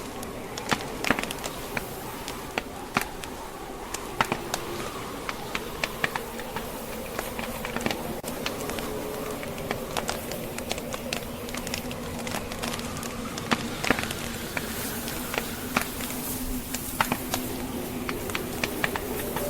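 Log fire crackling with irregular sharp pops and snaps, over a steady blizzard wind with a faint wavering drone.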